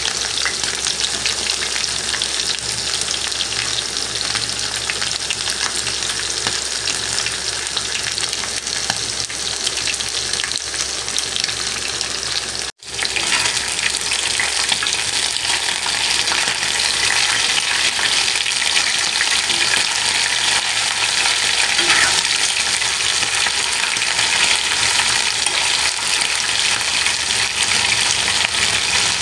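Masala-coated prawns and curry leaves shallow-frying in hot oil in a pan: a loud, steady sizzle full of small crackles and pops. In the second half a metal spatula stirs and scrapes the pan. The sound cuts out for an instant about halfway through.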